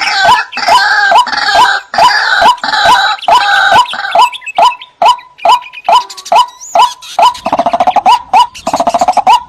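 White-breasted waterhen (ruak-ruak) calling: a steady run of repeated 'ruak' notes, about two and a half a second, with other waterhen calls overlapping. Near the end come two bursts of fast pulsed croaking.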